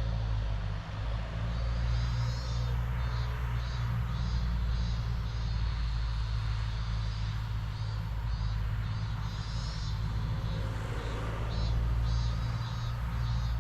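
Outdoor ambience: a steady low rumble with short high-pitched calls repeating over it, starting about two seconds in.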